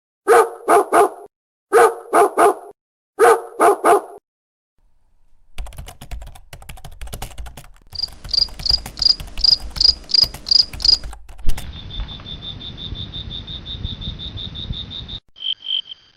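A dog barking in three quick bursts of three, followed by high, rapidly repeated chirping calls and a steady high trill.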